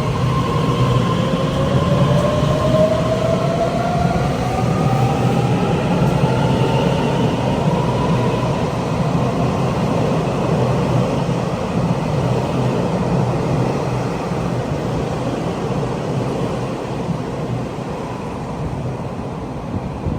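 Taiwan Railway train running loudly with a continuous rumble. A whine climbs steadily in pitch over about the first eight seconds.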